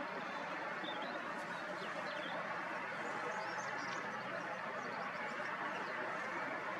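Scattered faint bird chirps over a steady, even background hiss.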